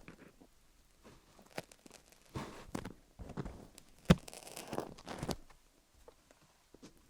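Wooden picks scratching and tapping over a rhinestone-studded dummy-head microphone, heard as irregular scratchy strokes with a sharp click about four seconds in.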